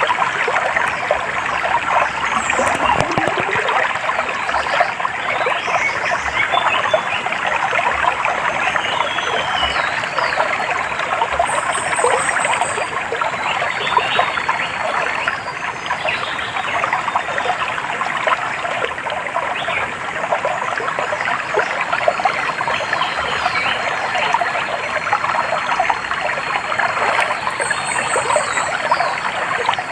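A stream trickling and babbling steadily, with birds chirping at a higher pitch over it. A short, fast run of high notes comes near the middle and again near the end.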